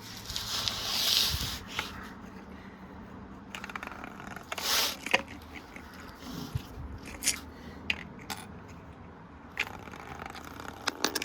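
Precept washing machine running with coins in the drum: coins clattering and scraping, with scattered sharp clicks and knocks and two short bursts of hiss, about a second in and near five seconds. The load is off balance, so the machine is moving across the floor.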